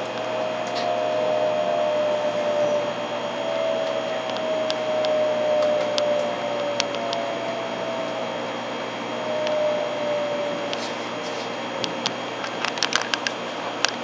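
A Hikari Rail Star Shinkansen (700 series) running, heard as a steady hum with a faint whine that slowly falls in pitch. A few sharp clicks come near the end.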